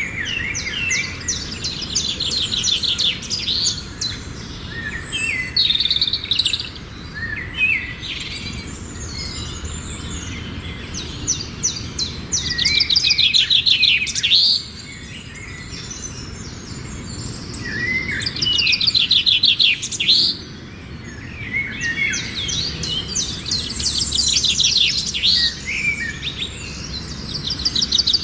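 Songbirds singing: bouts of fast, high trilled and chirping phrases every few seconds with brief lulls between them, over a low, steady background hum.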